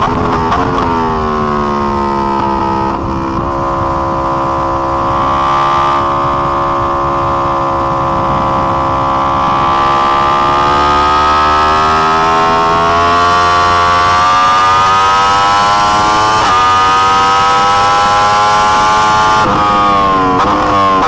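2020 Yamaha R1's crossplane inline-four running hard on track, heard from onboard. The engine note falls for the first few seconds as the bike slows, then holds and climbs steadily under acceleration. Near the end it drops sharply and picks up again.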